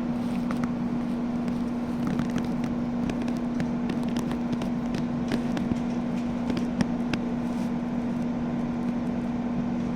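A steady low mechanical hum, with scattered small clicks and rustles.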